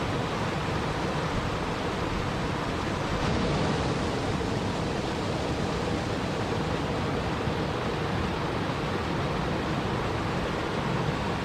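Steady, even rush of running water, with no separate splashes or drops standing out.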